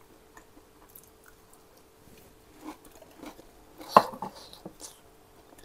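Faint chewing of a person eating a bite of chicken shami kabab, with a few small mouth and hand clicks. About four seconds in comes a sharp clack as a serving plate with a glass on it is set down on the counter. A faint steady hum runs underneath.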